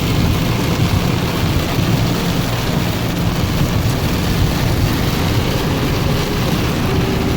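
A truck driving through deep standing water in a downpour: a loud, steady rush of water thrown up by the tyres and of rain, over a low rumble.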